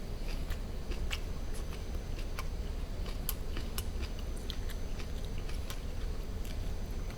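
Close-miked chewing of barbecued duck meat: irregular wet mouth clicks and smacks over a low steady hum.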